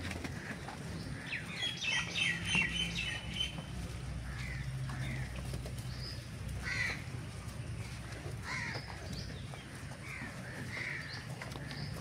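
Small birds chirping: a burst of rapid chirps about a second in, then single chirps every second or two, over a low steady hum.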